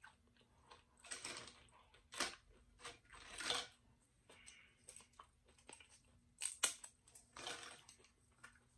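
Tortilla chips crunching as they are bitten and chewed, in several short bursts, with light clicks from chips being handled.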